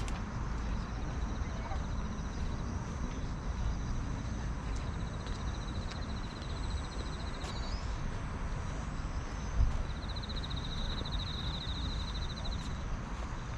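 Outdoor park ambience: a steady low rumble with a high, rapid trilling call heard twice, the second one louder. A brief low thump comes about two-thirds of the way through.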